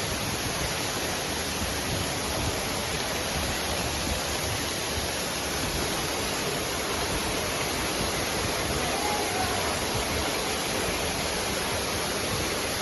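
Waterfall pouring into the river, a steady, even rushing of water.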